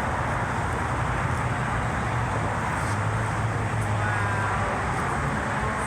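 Steady low rumble with a continuous low hum, like traffic or an idling engine, with faint voices in the background.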